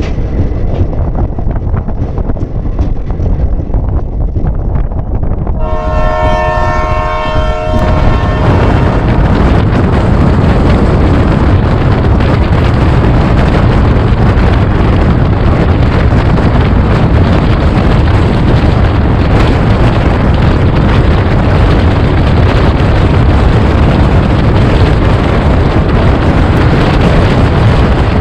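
Express train running, with its horn sounding one steady chord for about two seconds some six seconds in; from about eight seconds the running rumble grows louder and stays loud.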